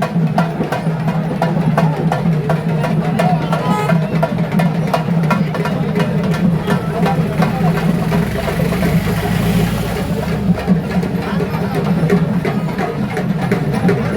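Fast, continuous drumming for the Pettai Thullal ritual dance, dense strokes over a steady hum of crowd voices. A low rumble swells about eight seconds in and fades about two seconds later.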